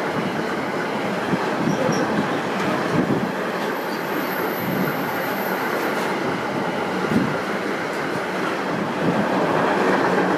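Freight train of double-deck car-transporter wagons rolling past at close range: a steady noise of wheels running on the rails, with light clicks. A faint high-pitched wheel squeal is heard for a few seconds in the middle.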